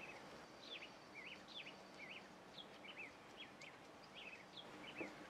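Faint bird chirping: a run of short, quick chirps, a few each second, over near-quiet room tone, with a soft tap near the end.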